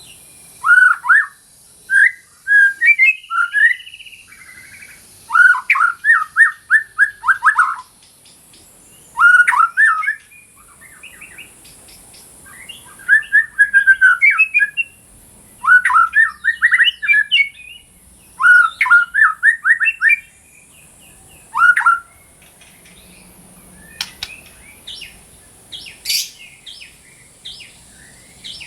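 White-rumped shama (murai batu) singing loud song phrases in bursts every couple of seconds, each a quick run of repeated whistled notes. Near the end come higher, sharper single notes.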